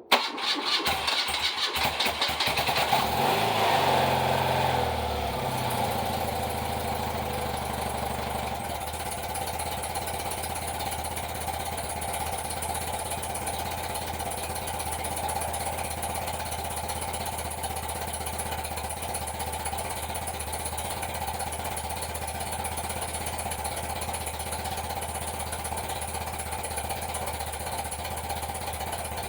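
1982 BMW R100RS's air-cooled boxer twin cold-started: a brief turn on the starter, it catches almost at once and runs at raised revs for a few seconds. The revs then drop and it settles into a steady idle.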